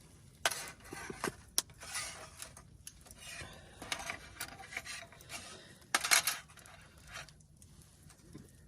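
Irregular clinks, clicks and scraping rustles of camp cookware and utensils being handled, the loudest cluster about six seconds in.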